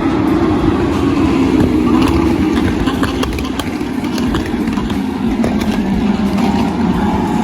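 Lamborghini race car engine running hard, its note sinking slowly in pitch, with a second rising engine note coming in near the end.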